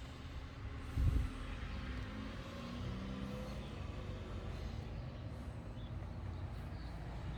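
Ford Transit van engine running with a steady low rumble, with a short low thump about a second in.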